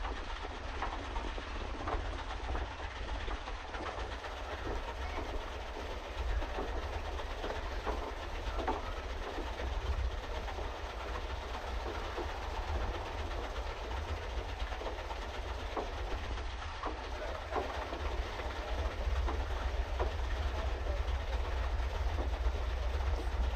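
Pedal boat underway: steady churning and rattling of its pedal-driven paddle wheel in the water, with scattered small clicks over a low rumble.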